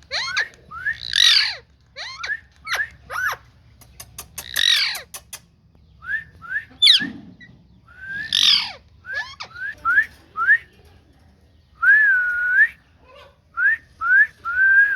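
Green ringneck (rose-ringed) parakeet calling: a string of short whistled chirps, several harsher squawks, and one longer held whistle about twelve seconds in.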